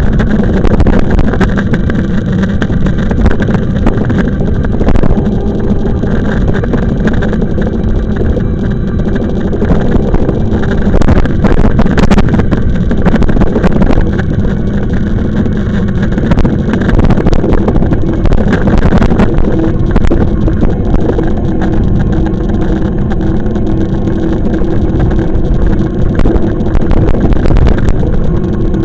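Wind rushing over the microphone and rolling noise of a moving e-bike, loud and steady, with a low hum held underneath.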